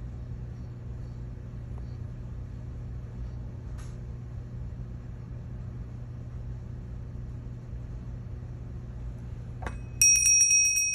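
A steady low hum of room tone, then a small bell struck once near the end, ringing clearly for about a second: the signal for pencils down.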